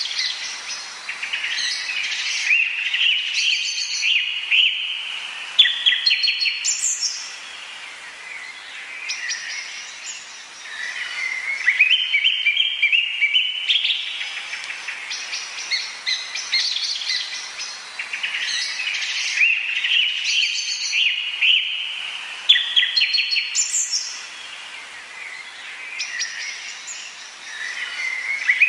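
Tropical forest birds singing, with bouts of rapid chirps and series of notes stepping upward in pitch, and a brief high rising whistle twice, over a faint background hiss.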